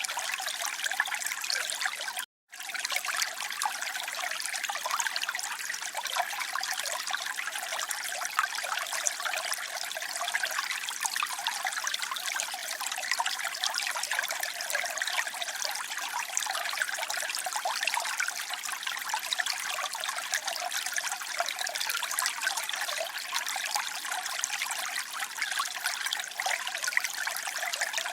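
Flowing water trickling steadily, a bright, splashy babble with little low rumble; it cuts out completely for an instant about two seconds in.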